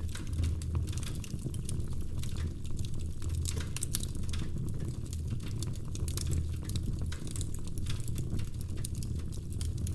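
Wood fire burning in a fireplace, crackling with frequent irregular snaps and pops over a steady low rumble.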